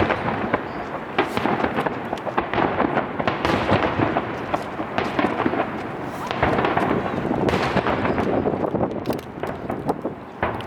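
Starmine fireworks barrage: aerial shells launching and bursting in rapid succession, with many overlapping bangs and crackles and a continuous rumbling echo.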